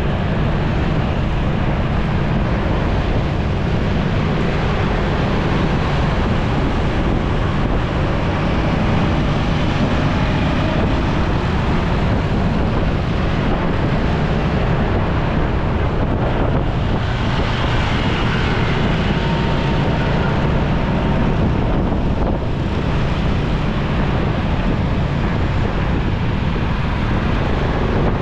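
Wind buffeting the microphone of a moving motorcycle, over the steady running noise of the bike and surrounding traffic.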